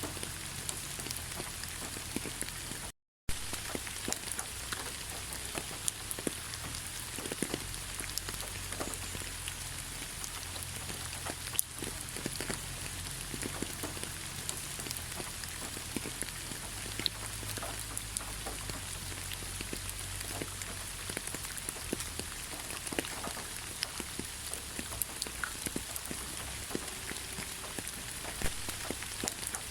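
Steady rain falling in a pine forest: an even hiss with many individual drops ticking close by. The sound cuts out completely for a fraction of a second about three seconds in.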